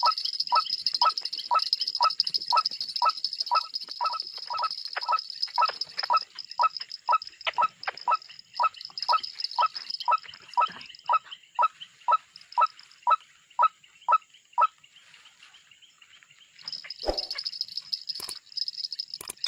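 A bird calling over and over, short falling notes about twice a second, over a steady high-pitched buzz. The calls stop about fifteen seconds in, and a sharp knock comes a little later.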